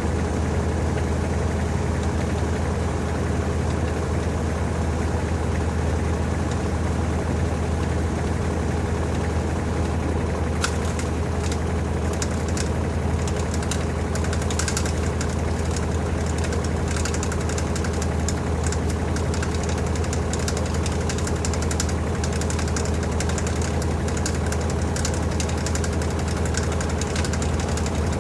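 LG TurboDrum WT-R852 top-loading washing machine spinning a load of bedding at speed: a steady, loud, low hum. From about ten seconds in, faint irregular clicking and crackling joins it.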